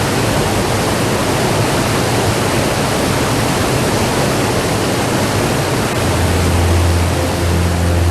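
Loud, steady roar of rushing white water. About six seconds in, a low steady tone comes in underneath it.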